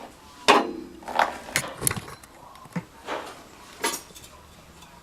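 A string of short metallic clanks and scrapes, about seven, spread over a few seconds, as parts are pulled out of a gas water heater's burner compartment.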